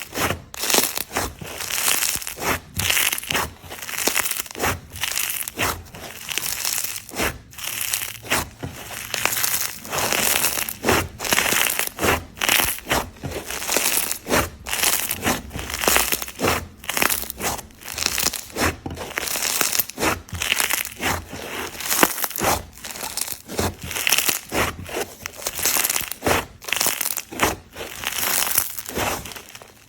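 Slime crackling and crunching as hands squeeze and press it, in repeated presses about once or twice a second.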